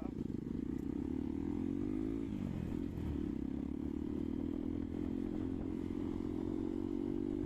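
Hero Xpulse 200 single-cylinder motorcycle engine running under way, its note climbing until about two seconds in, dropping sharply, then holding steady.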